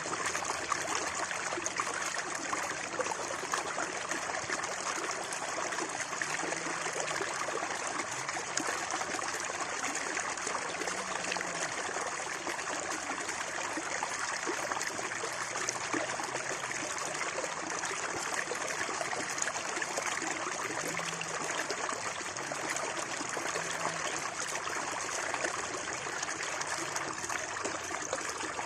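Water flowing and trickling in a shallow stream, a steady babbling murmur.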